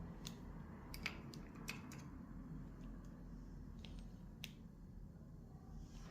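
A few faint, sharp clicks and ticks, bunched in the first two seconds with two more a little after the middle, over a low steady hum.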